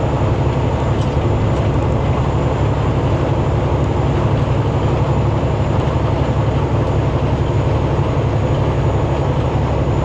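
Semi-truck heard from inside the cab while driving on the highway: a steady low engine drone with road noise, unchanging throughout.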